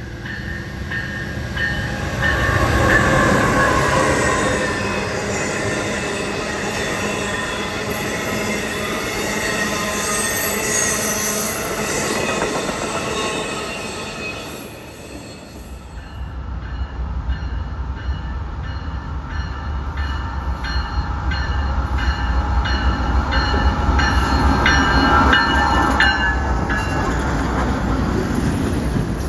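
A train passing close by, its wheels squealing on the rails through the first half. After a brief dip it returns as a heavier low rumble, with a quick run of wheel clicks over the rail joints in the later part.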